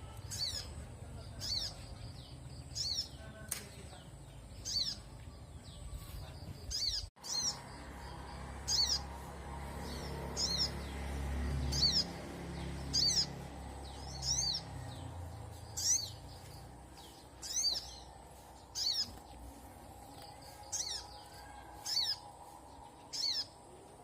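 A songbird repeating a short, high call that falls in pitch, about once every second or so, over a faint low background rumble.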